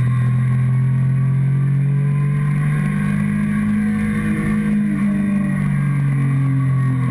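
Motorcycle engine running steadily while riding, heard close up from the fuel tank, with wind rush underneath; the engine note strengthens slightly for a couple of seconds in the middle.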